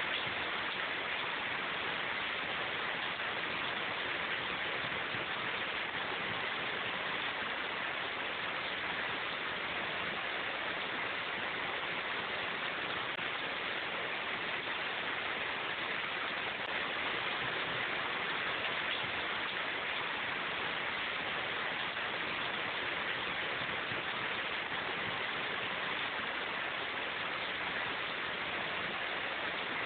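Steady rain falling in a forest, an even hiss of drops with no distinct drips or changes.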